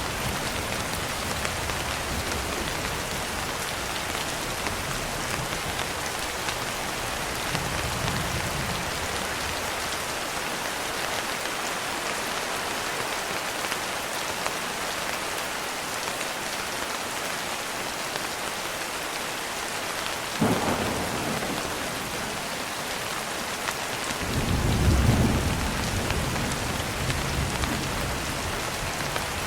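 Steady heavy rain falling, with thunder: a sharp crack about two-thirds of the way in, then a low rolling rumble a few seconds later that is the loudest part.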